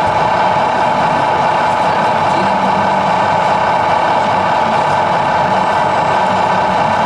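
Truck engine idling steadily, most likely the electronic sound module of an RC model truck playing through its small speaker.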